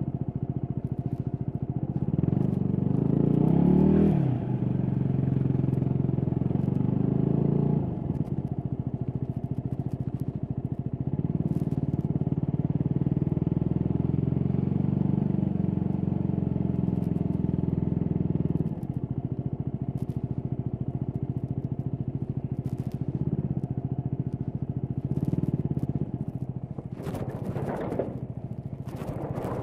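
Stock Yamaha WR250X's single-cylinder four-stroke engine under way, pulling up in revs with sudden drops at the gear changes, then easing off. Near the end come a couple of quick rev blips. Scattered light clicks and scrapes come from the microphone rubbing.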